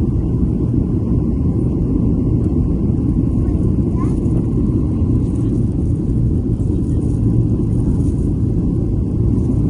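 Steady low rumble of an airliner, as heard inside the passenger cabin.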